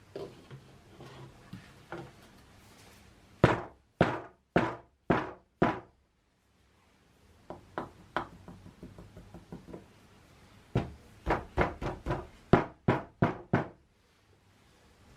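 Sharp knocks on a PVC pipe being filled with fine sand: five about half a second apart, then faint ticks, then a faster run of about ten knocks.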